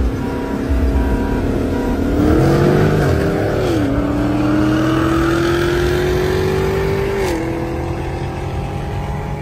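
Car engine accelerating through the gears: steady at first, its pitch climbs from about two seconds in, drops at an upshift about four seconds in, climbs again, and drops at a second upshift about seven seconds in.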